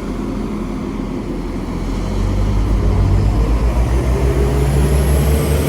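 Two coupled class 195 diesel multiple units pulling away, their underfloor diesel engines running under power. The drone grows louder and pulses about two seconds in, and a faint high whine comes in near the end.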